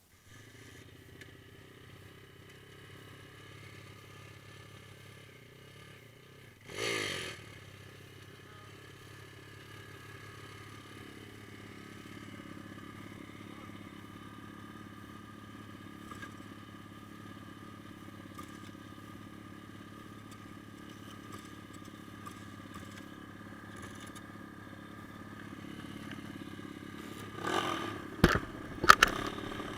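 Pit bike's small single-cylinder engine running steadily, with a short loud clatter about seven seconds in and a few loud knocks near the end.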